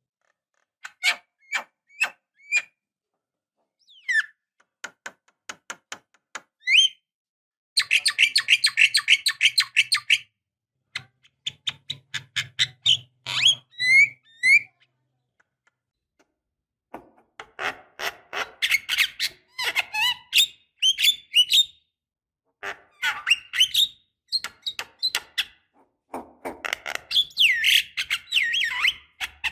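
Javan myna calling: bursts of rapid, harsh clicking chatter mixed with short rising whistled notes, broken by pauses of a second or two.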